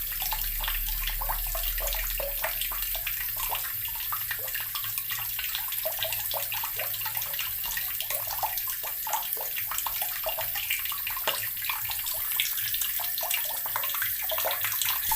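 Water running steadily from a tap and splashing into a basin below, with a constant spatter of small splashes.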